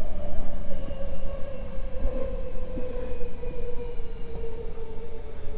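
Hankyu 8000 series electric train heard from inside the passenger car: a steady low rumble from the wheels and running gear under a traction-motor whine that falls slowly in pitch as the train slows.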